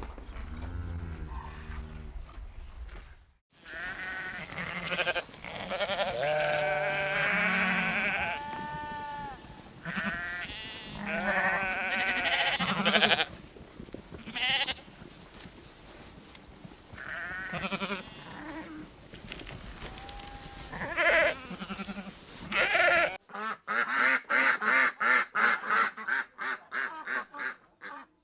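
Goats bleating, many separate wavering calls one after another. In the first few seconds a cow's low moo trails off, and near the end a rapid run of duck quacks takes over.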